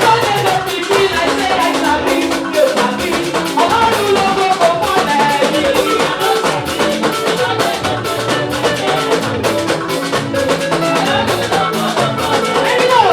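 Live gospel praise band playing: drum kit and guitar with a steady beat.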